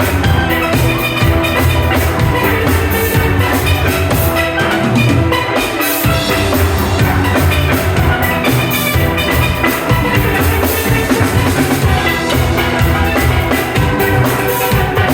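A steel band playing: steelpans carrying the melody and chords over a drum kit's steady beat, with the drums and bass briefly dropping out about six seconds in.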